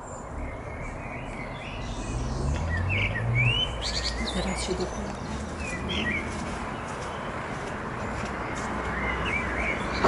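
Small birds chirping in short sweeping calls, several in the middle and a few more near the end, over a steady low outdoor rumble.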